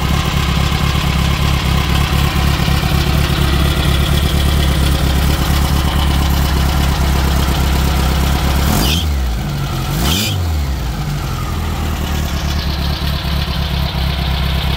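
Air-cooled VW flat-four engine of a 1965 Meyers Manx dune buggy idling steadily through its rear exhaust. Twice near the middle its pitch briefly swings up and down as the throttle linkage on the FiTech throttle body is worked by hand.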